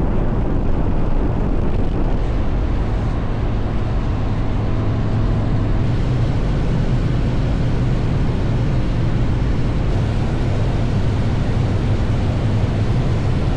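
Motorcycle riding at a steady cruising speed: a low, even engine drone mixed with road and wind noise.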